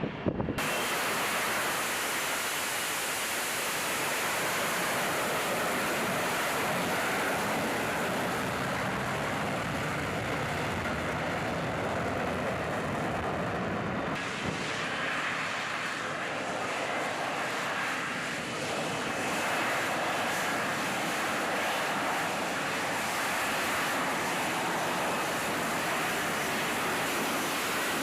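Jet engine running with a steady rushing roar that sets in abruptly about half a second in and holds an even level throughout.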